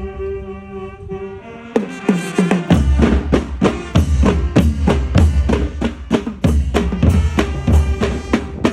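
Marching band music: a held brass chord fades, then the drums come in about two seconds in with a steady beat of bass drum and snare strikes.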